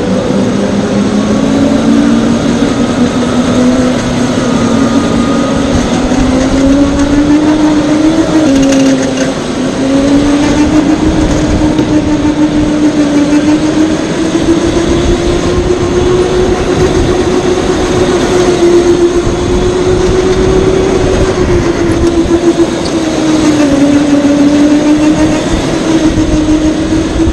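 Electric go-kart motor whining, its pitch drifting up and down with speed, over a loud low rumble.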